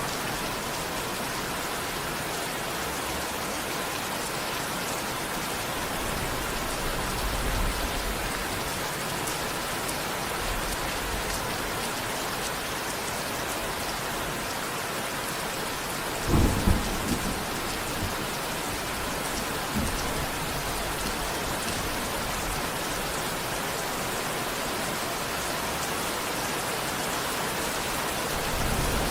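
Steady rain falling, with a low rumble of thunder about a quarter of the way in and a sudden loud clap of thunder a little past halfway, followed by a smaller one a few seconds later.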